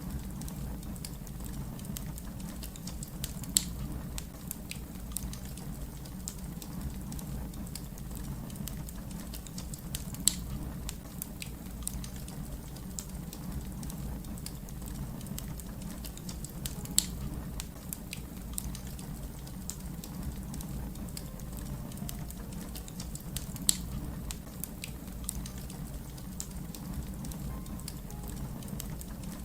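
Wood fire crackling: a steady low rumble under frequent small pops, with a louder snap about every seven seconds.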